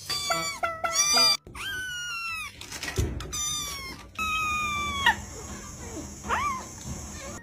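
Kitten meowing over and over: a quick run of short, high mews in the first second and a half, then several longer, drawn-out meows.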